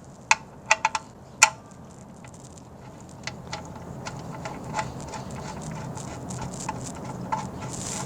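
Small metal clicks and taps as the oil drain plug is set into the oil pan and threaded in by hand. A few sharp clicks come in the first second and a half, the loudest about a second and a half in, then lighter irregular ticks follow.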